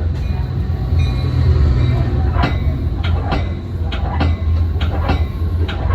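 Metra commuter train rolling with a steady low rumble. From about two and a half seconds in, its wheels clack over track joints in an uneven rhythm, roughly two a second.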